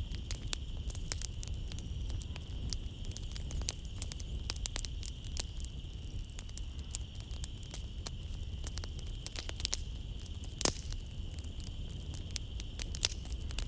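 Wood fire crackling in a fireplace: a dense run of sharp pops and snaps, one louder pop near the end. Behind it runs a steady high trill of night insects.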